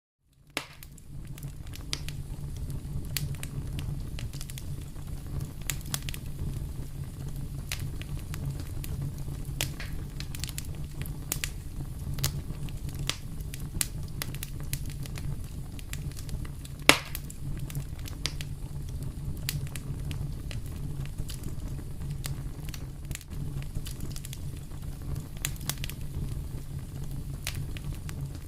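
Wood fire in a fireplace crackling: irregular sharp pops and snaps over a steady low rumble of the flames, with one louder pop about halfway through.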